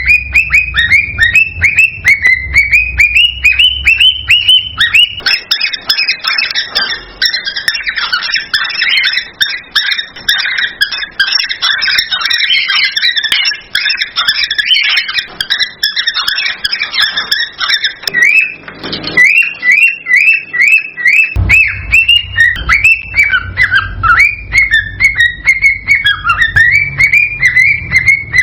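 Cockatiels calling and whistling: a run of quick rising chirps, then a denser stretch of several birds calling over one another, then quick rising chirps again after a short break.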